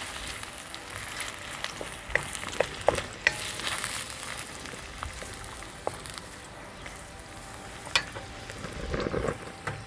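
Sliced onion and garlic sizzling steadily in hot oil in a stainless steel wok, stirred with a wooden spatula that gives a few sharp taps against the metal.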